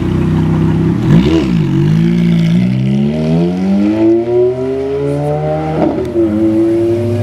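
Ferrari F430's 4.3-litre V8 engine idling, blipped once about a second in, then revving up steadily as the car pulls away under acceleration. Near the end the pitch drops at an upshift and starts climbing again.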